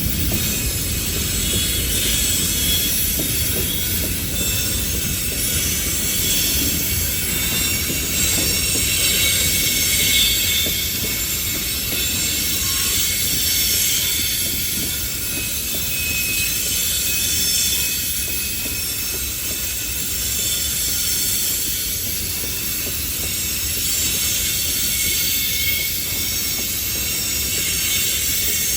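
Railroad train cars rolling past with a steady low rumble of wheels on rail and high, wavering wheel squeal over it.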